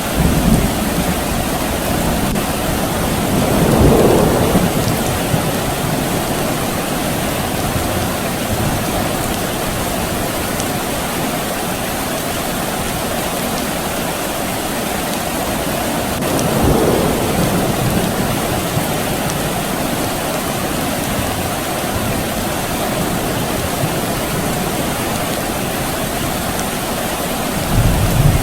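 Steady rain falling, with distant thunder rumbling in two slow swells, one about four seconds in and one past the middle, and another low rumble starting near the end.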